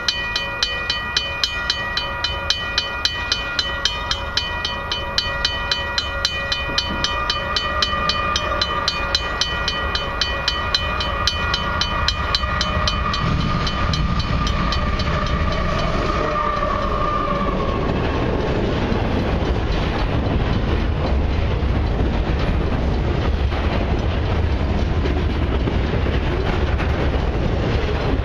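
Level-crossing warning bell ringing steadily, about two strikes a second, as a diesel-hauled freight train approaches. About halfway through, the locomotives' rumble grows and drowns the bell, and the long train rolls past with its wheels clattering over the rail joints.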